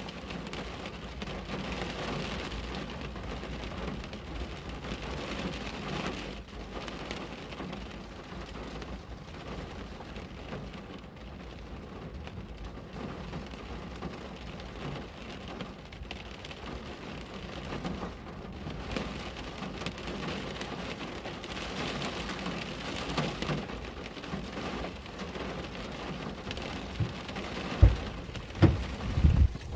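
Rain pattering steadily on a window, swelling and easing in waves. Several loud, low thumps come near the end.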